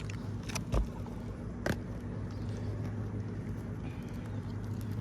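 A steady low machine hum, with a few light clicks and a soft thump just under a second in.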